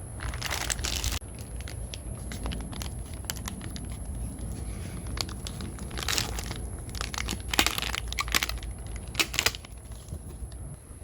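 Crinkling and rustling in short bursts, like material being handled, crumpled or torn, over a steady low hum.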